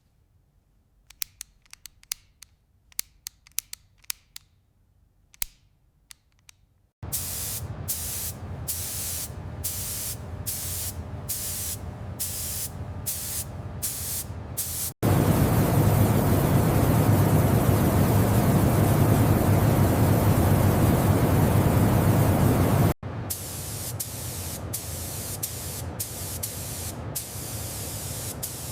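Compressed air hissing from a pneumatic tool. It starts after a few seconds of small clicks, first in short bursts about every half second, then in one louder unbroken blast for about eight seconds, then in short bursts again.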